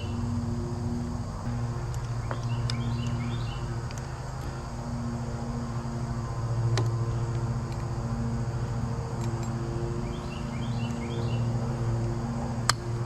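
A steady low mechanical hum runs throughout, with a few sharp metal clinks of hand tools; the loudest comes near the end. A bird's short chirping phrase is heard twice.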